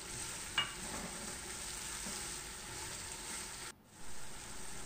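Onion-tomato masala with fresh mint and coriander leaves sizzling in oil in a stainless steel pot while a spatula stirs it, a steady hiss with a light click about half a second in. The sound drops out briefly just under four seconds in, then the sizzling carries on.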